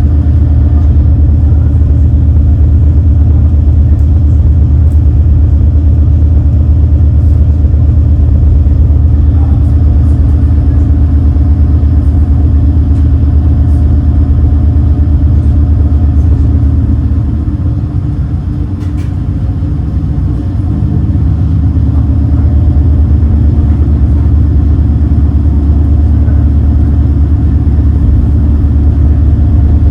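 High-speed passenger boat's engines droning steadily, heard from aboard. About seventeen seconds in, the drone eases briefly and its pitch shifts, then it returns to full strength.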